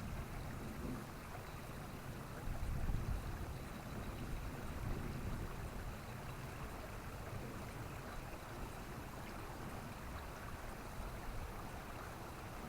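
Steady rushing outdoor noise with a low rumble, swelling briefly about two and a half seconds in; no bird song stands out.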